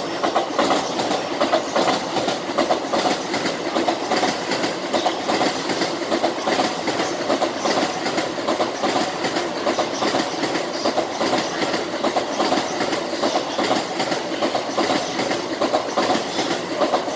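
N700-series Shinkansen train running past: a steady rumble of wheels on rail with fast, continuous clicking.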